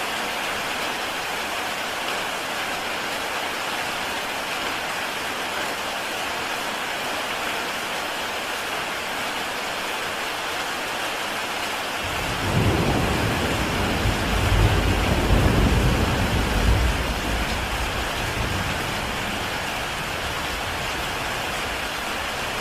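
Heavy rain falling steadily on a tile roof. About halfway through, a roll of thunder breaks in as a deep rumble that swells for a few seconds and fades away.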